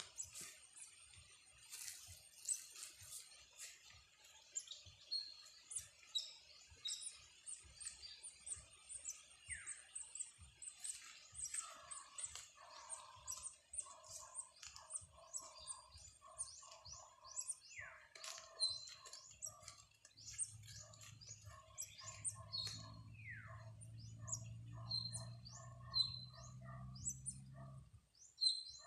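Fallen nestling bird chirping: many short, high, sharp tweets and quick falling notes, with lower repeated calls joining from about twelve seconds in. A low steady hum comes in about two-thirds through and stops just before the end.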